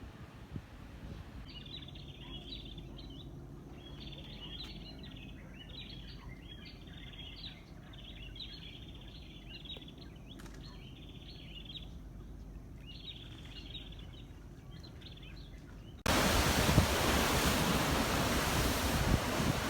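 Low, distant surf with birds twittering in short repeated bursts. About sixteen seconds in, it cuts abruptly to a much louder, steady rush of surf and wind buffeting the microphone.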